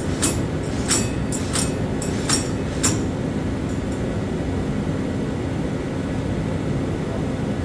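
Steady mechanical drone with a constant low hum, and a handful of sharp clicks or taps in the first three seconds.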